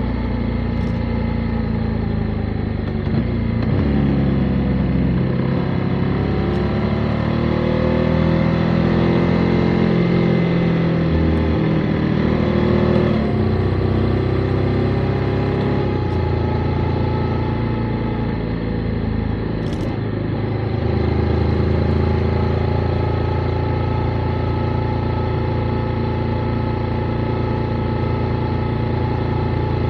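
Motorcycle engine running on the move, its pitch rising and falling with the throttle. It climbs steadily for several seconds, drops suddenly about 13 seconds in as if on a gear change, and builds again later.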